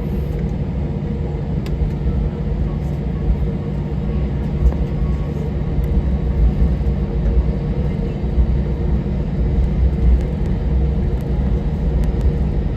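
Airbus A321-200 cabin noise while taxiing after landing: a steady low rumble with the hum of the idling jet engines, and a few faint clicks.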